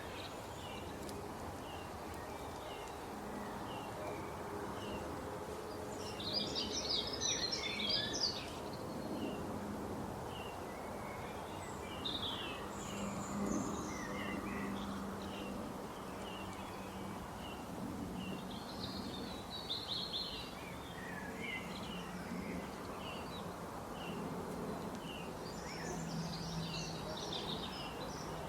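Small birds chirping: short high calls scattered throughout, with brief bursts of busier twittering about six, thirteen, twenty and twenty-six seconds in, over a steady background hiss and a low hum.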